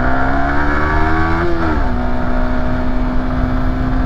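Yamaha YZF-R125's 125 cc single-cylinder four-stroke engine under acceleration: the note climbs steadily, drops about a second and a half in, then holds a steady pitch.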